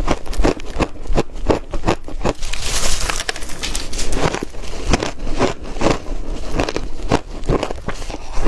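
Close-up biting and chewing of ice: rapid, irregular crunches, a few a second.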